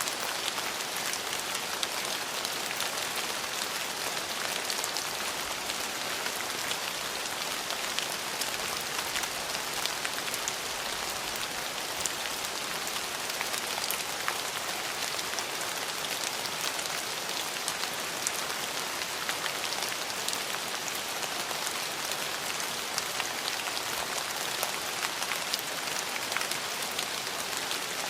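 Steady rain falling, a dense even hiss with many fine drop ticks on hard surfaces.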